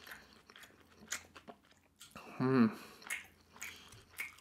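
Close-miked chewing of battered sweet and sour pork with rice, with small wet clicks and crunches. A brief hummed "mm" from the eater comes about two and a half seconds in.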